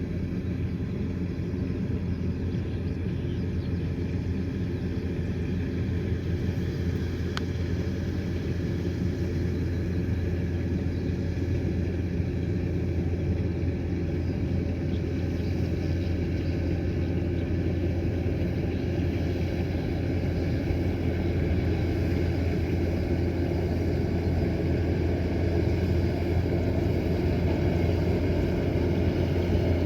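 Kubota combine harvester's diesel engine running steadily as the machine works, a low drone that slowly grows louder.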